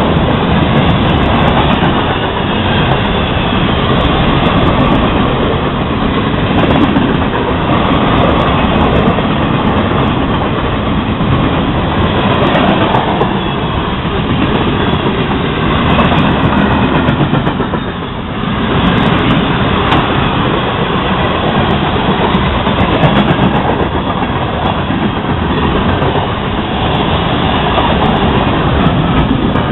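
Florida East Coast Railway freight train rolling past close by: a loud, steady rumble of cars with steel wheels clacking over the rail joints. It dips briefly past the midpoint.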